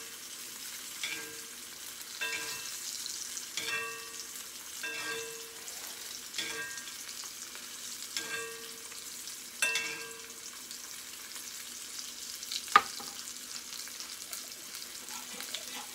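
Salmon fillet sizzling steadily in a hot cast-iron skillet. Through the first ten seconds there are light metallic knocks with a short ring, about one every second and a half, as the pan is handled. One sharp clack comes near the end.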